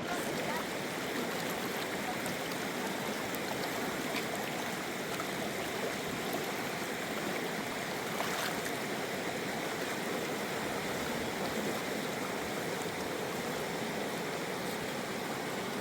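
River water rushing and babbling steadily over rocks.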